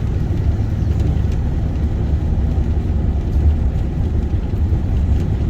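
A vehicle's engine and road noise while driving: a steady low rumble.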